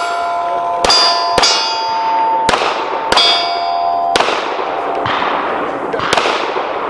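A string of about seven pistol shots, irregularly spaced about half a second to a second apart. Several are followed by the ringing clang of steel target plates being hit.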